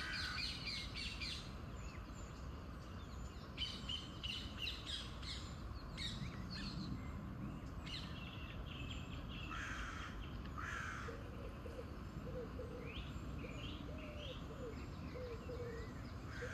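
Birds calling: several series of harsh, repeated calls with some higher chirps, over a steady low rumble of city background noise. A lower, softer repeated call joins in the second half.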